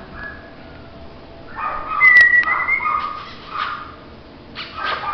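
A dog whining in high, thin tones, in a few separate whines with short pauses between.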